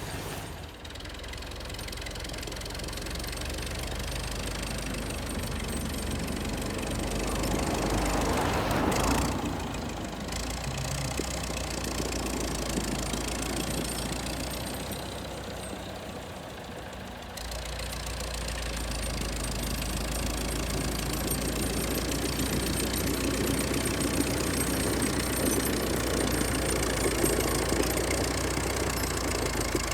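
Vintage Volvo tractor's engine running steadily while snow-plowing. It swells about eight seconds in, eases off over the next several seconds, and comes back abruptly near seventeen seconds, holding steady after that.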